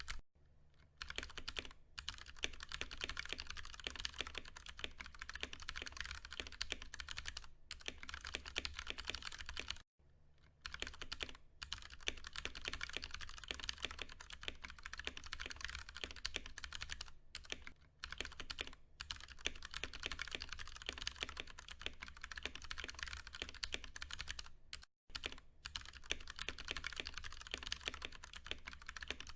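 Fast, continuous typing on a Ducky One 2 Mini mechanical keyboard with Cherry MX Brown tactile switches: a dense patter of keystrokes, broken by a few brief pauses.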